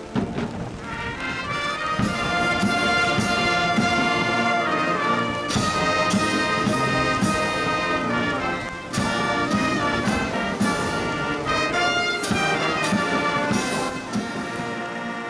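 A brass band playing, with trumpets and trombones holding sustained chords that build up over the first two seconds.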